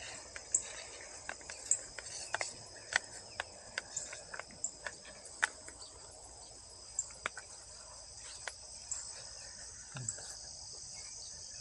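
Steady high chirping of crickets, with scattered sharp clicks over it, most of them in the first half.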